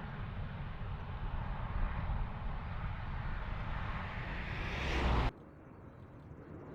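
Jet aircraft passing, a steady roar with a low rumble that grows louder and brighter, then stops suddenly about five seconds in, leaving faint background noise.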